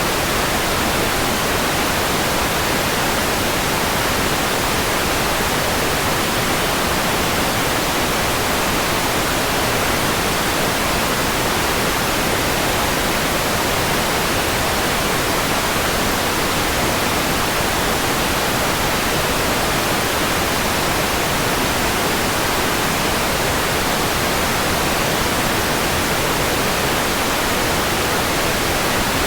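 Steady white noise: an even, unbroken hiss that stays the same throughout.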